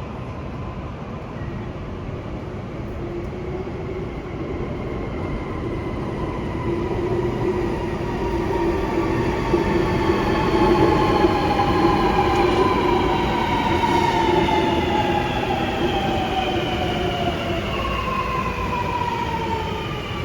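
Sydney Metro Metropolis Stock train pulling into a station and slowing down. Its traction motors give a whine of several tones that falls steadily in pitch as it brakes, over rolling wheel rumble. The sound grows louder as the train passes close, about halfway through, then eases.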